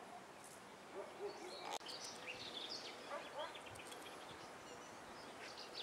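Faint outdoor ambience with small birds chirping, the chirps clustering in the middle of the stretch, and a single sharp click a little under two seconds in.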